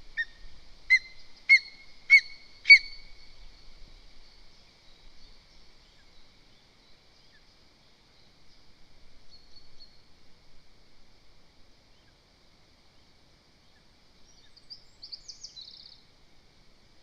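Lesser spotted eagle calling close to the nest: a quick series of four loud, short, high calls about half a second apart, at the start.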